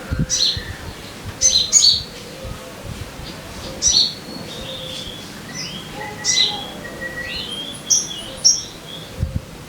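Sogon sunbird calling: short, sharp high chirps in small clusters, with a brief run of lower warbling, gliding notes in the middle.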